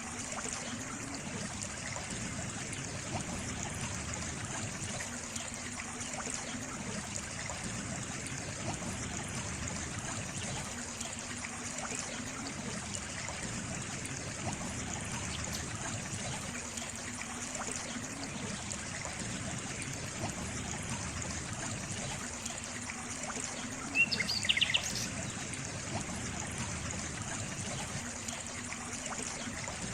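Water trickling and splashing steadily, like a small stream. Near the end a brief cluster of short, high chirping notes stands out above the water.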